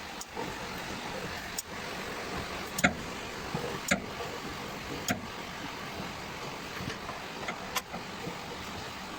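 Hammer blows on the metal of a three-wheeler's starter motor: about half a dozen sharp knocks at irregular gaps, loudest about three and four seconds in, over a steady hiss of rain.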